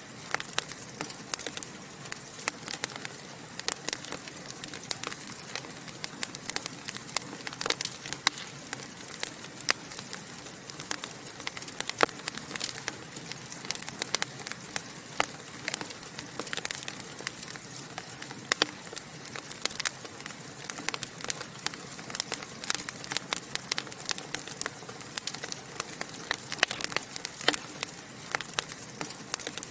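Wood fire in a fireplace crackling and popping: a dense, irregular run of sharp pops over a steady hiss.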